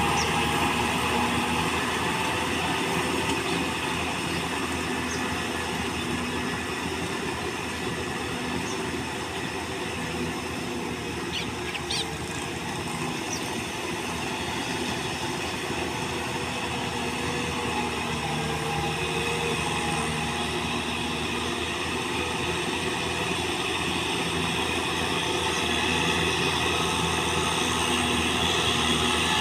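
Kubota tractor's diesel engine running steadily under load while pulling a plow. It gets a little quieter through the middle and louder again near the end.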